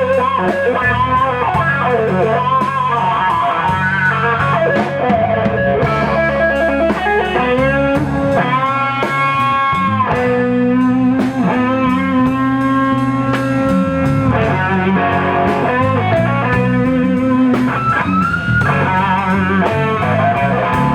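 Electric guitar solo in a slow blues over bass and drums. The solo has bent, sliding notes, several long held notes around the middle, and a wide vibrato near the end.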